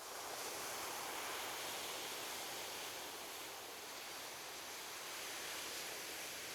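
Ocean surf washing onto a beach: a steady hiss of breaking waves that swells up at the start and holds.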